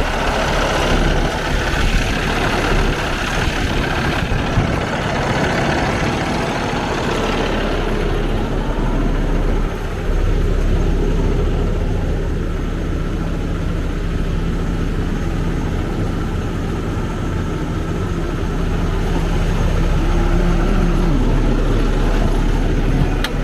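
A Kenworth T680 truck tractor's 485 hp PACCAR diesel engine running at a steady idle with a low, even hum. A brighter rushing noise sits over it for the first several seconds.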